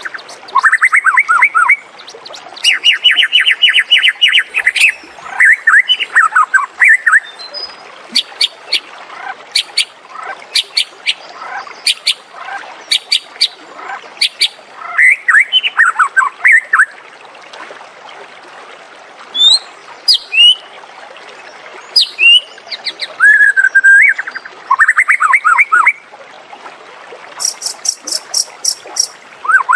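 White-rumped shama singing a varied, continuous song of loud whistled phrases, trills and quick sharp notes, with short pauses between phrases. A phrase heard at the start comes again a little after twenty seconds, and a fast, very high trill comes near the end.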